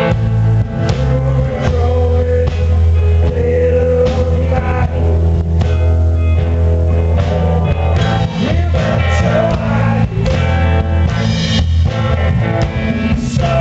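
Rock band playing: electric guitar, bass and drums, with a sung melody over them.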